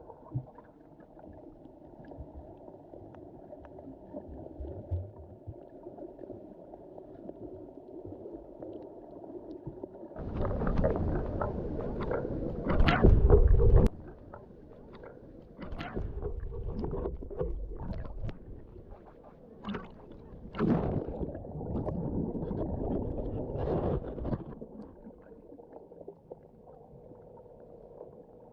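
Underwater sound of the sea heard through a submerged microphone: a muffled, even hum, then from about ten seconds in, several louder surges of water rushing and bubbling, loudest a little after that, before it settles back to the quiet hum near the end.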